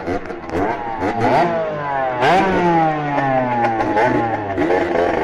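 Two-stroke Beta RR moped engine with a 70 cc Airsal cylinder kit and an SCR Corse expansion exhaust, revving up sharply several times, then falling in pitch for about two seconds before revving again.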